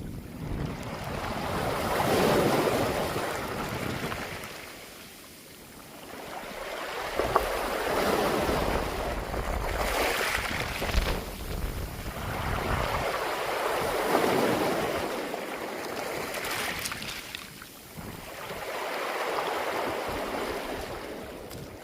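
Sea waves washing over a beach of smooth round pebbles (mongdol), the water rolling the stones with a rattling hiss. The surf swells and fades about four times, with a few sharp clicks of stones.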